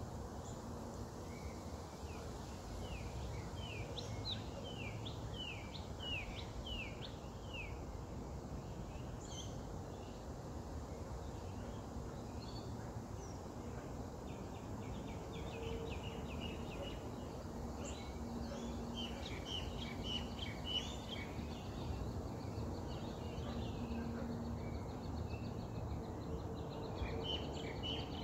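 Small birds calling over a steady low background rumble. A run of short, quick falling chirps comes in the first few seconds, and busier chirping and chatter fill the second half.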